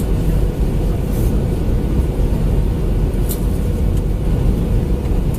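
Steady low rumble of engine and airflow noise inside the cabin of an Airbus A320, with a faint steady hum and a couple of brief light clicks.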